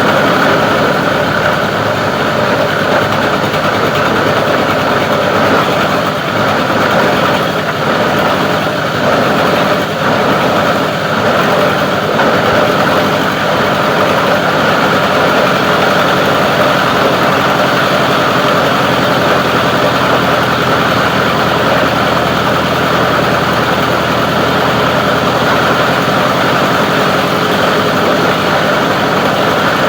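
Plastic-recycling grinding machine running steadily: a loud, continuous mechanical drone with no breaks.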